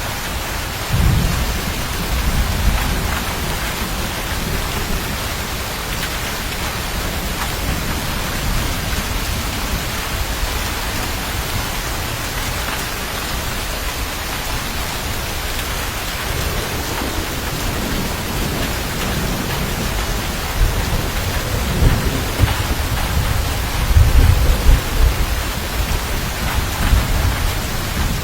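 Steady rain with low rumbles of thunder: one about a second in, then several rolling rumbles near the end.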